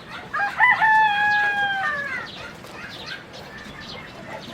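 A rooster crowing once: a call of about two seconds, held level and then falling at the end, over a steady background of other chickens clucking.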